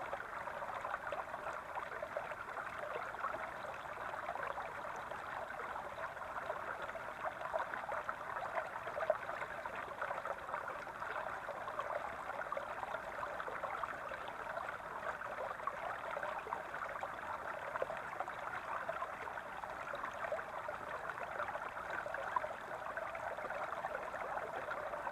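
Brook babbling steadily, an even trickling and splashing of running water.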